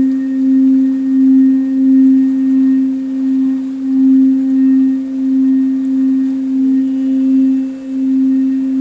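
Crystal singing bowl ringing with one steady, sustained tone that swells and fades about once a second.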